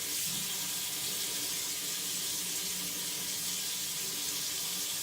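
Tap water running steadily into a sink while a freshly sharpened cleaver is rinsed under it.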